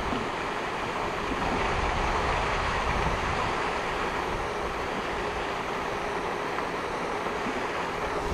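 Steady rushing splash of a pond fountain's spray falling back onto the water, with wind buffeting the microphone underneath.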